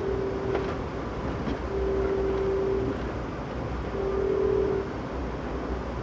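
Locomotive horn sounding three blasts, the third shorter than the first two, heard from aboard a moving Amtrak train over the steady low rumble of the train running on the rails.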